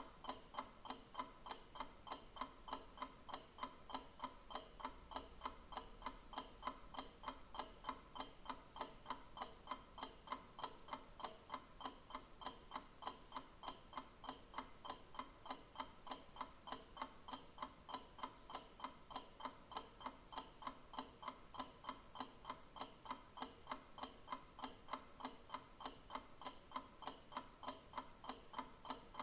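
Clock ticking steadily with sharp, evenly spaced ticks, about three a second.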